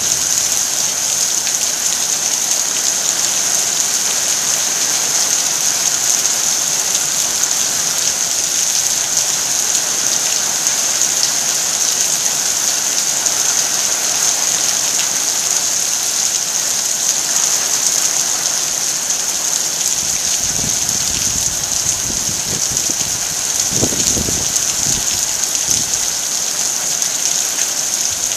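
Heavy rain falling steadily, with a dense, even hiss of drops on surfaces. A few low rumbles come through about two-thirds of the way in.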